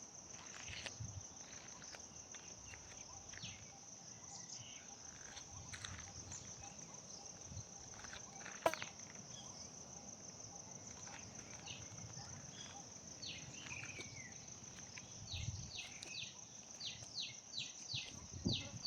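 Outdoor ambience: a steady, high, finely pulsed insect drone with short, scattered bird chirps over it, turning to a quick run of repeated chirps near the end. A single sharp click about nine seconds in.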